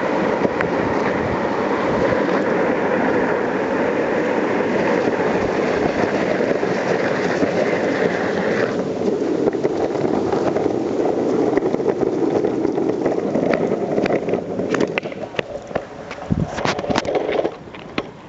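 Longboard wheels rolling over pavement, a steady rumble whose tone changes about halfway through as the surface changes. Scattered clicks and knocks follow near the end, and the rolling stops shortly before the end.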